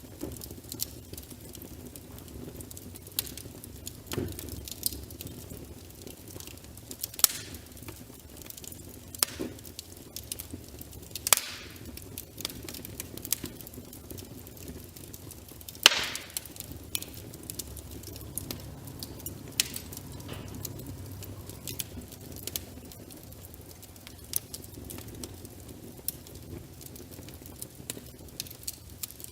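Wood fire in a fireplace crackling, with irregular sharp pops and snaps over a soft steady hiss; the loudest pop comes about 16 seconds in.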